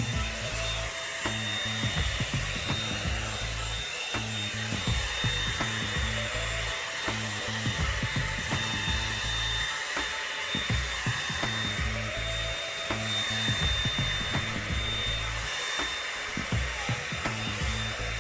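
Revlon One-Step hot air brush dryer running on its high setting: a steady high motor whine with the rush of blown air. Background music with a bassline plays under it.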